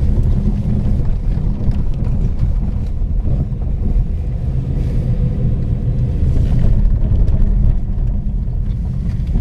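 Nissan Qashqai+2 driving over a rough road, heard inside the cabin: a steady low tyre and road rumble with faint small bumps. There is no suspension knocking or steering rattle, because the tie rod ends, steering shaft joints and anti-roll bar bushings are new.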